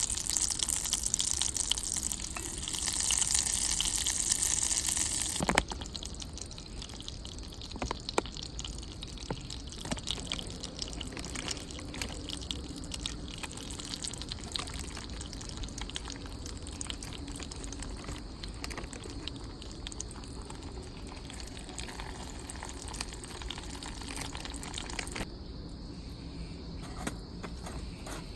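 Water running steadily for about five seconds, then cut off abruptly, followed by scattered light clicks and knocks.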